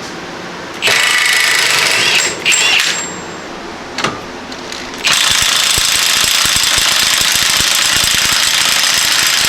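Impact wrench hammering on a Honda CR-V axle nut in three runs: about a second in, briefly near three seconds, then steadily from about five seconds on, the nut not yet breaking loose.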